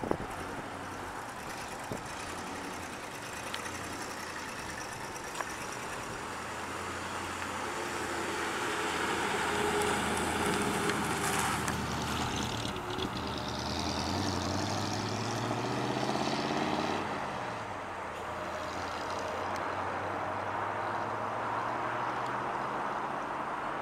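1953 Mercury Monterey's 4.2-litre flathead V8 running as the car drives by at low speed; the engine note climbs through the middle as it pulls away, then drops off.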